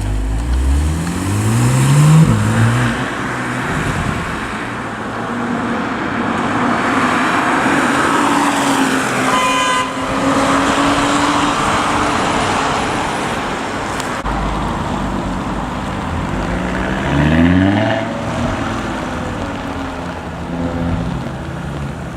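Car engines accelerating hard, their pitch climbing with revs and dropping at the gear changes, about two seconds in and again around seventeen seconds in. Between them an engine holds steady revs, and a brief high-pitched toot sounds about nine and a half seconds in.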